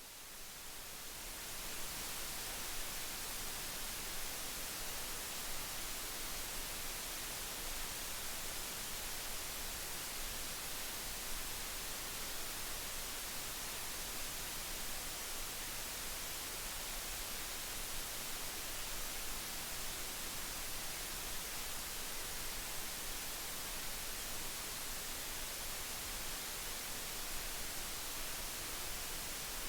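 Steady, even hiss with no distinct events, fading in over the first two seconds and then holding level.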